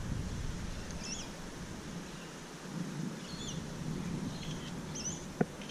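Several short, high bird chirps scattered through, over a low rumble of wind on the microphone, with a single sharp click near the end.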